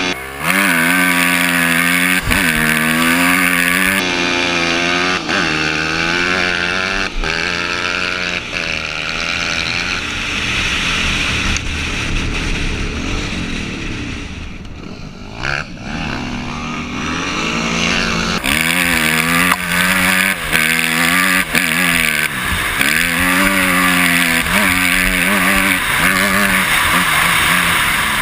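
Dirt bike and ATV engines racing at full throttle, a Yamaha YZ250F single-cylinder four-stroke and a Kawasaki KFX700 V-twin quad. They rev hard and shift up through the gears again and again. The engine sound fades somewhat about halfway through, then builds again.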